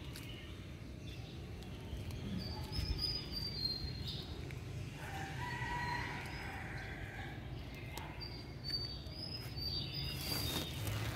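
Small birds chirping in short, high notes, in two spells, with a longer, lower call about halfway through, over a steady low background rumble.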